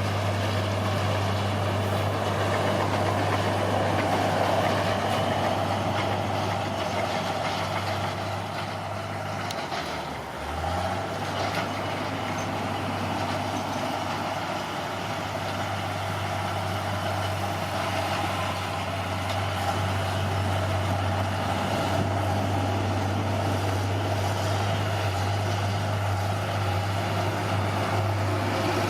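Heavy diesel engine of earthmoving machinery running steadily under load, its low note dipping briefly and picking back up about ten seconds in.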